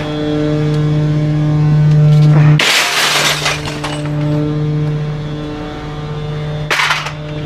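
Garbage truck's hydraulic packer crushing bulky waste: a steady hum that builds for about two and a half seconds, then a loud crash of items breaking apart, and a shorter crack near the end.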